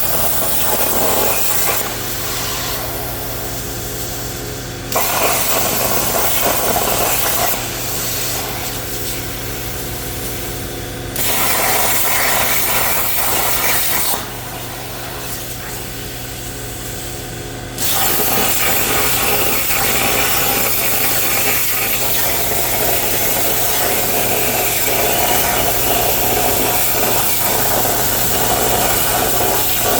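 Everlast 82i plasma cutter cutting on a CNC table: a loud hiss of arc and air that starts and stops several times, the last cut running long, over a steady hum.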